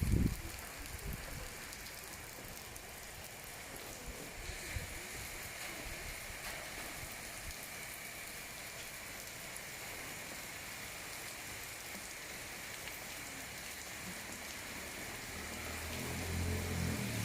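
Steady rain falling on surfaces, an even hiss. There are a few low thumps in the first second, and a vehicle engine grows louder over the last couple of seconds.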